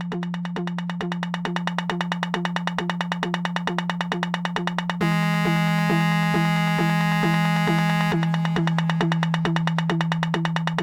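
Synthesizer electronic music made in FruityLoops: a steady synth bass drone under a fast ticking pulse and a short repeating synth note about three times a second. About five seconds in, a bright sustained synth chord comes in for roughly three seconds, and the music slowly grows louder.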